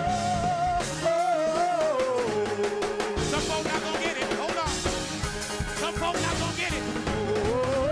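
Live church praise band music: a drum kit keeping the beat under a held lead note that slides down about a second in and climbs back up near the end.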